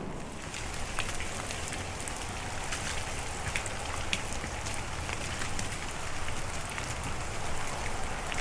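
Rain falling: a steady hiss with many small drop ticks scattered through it.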